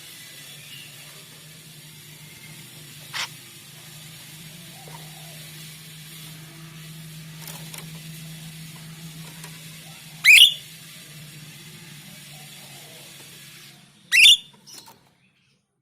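Caged jalak rio-rio bird giving short, sharp whistled calls that sweep upward, three times several seconds apart, the last two loud. A steady low hum runs underneath and stops near the end.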